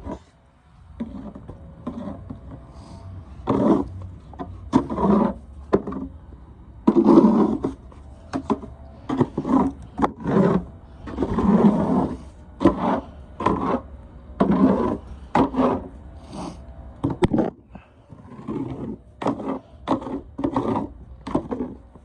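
Snow shovel scraping and pushing through snow in a long run of irregular strokes, some short and some about a second long.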